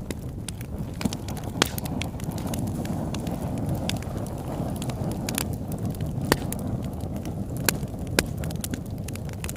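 Campfire burning: a steady low rush of flames with frequent sharp crackles and a few louder pops.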